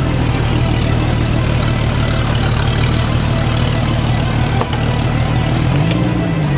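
Engine of an off-road Jeep Cherokee XJ running steadily at low revs as the 4x4 crawls down a muddy trail.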